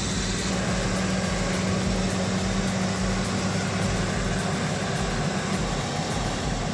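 Heavy off-road truck engine running under load, holding a steady pitch that fades out about four seconds in.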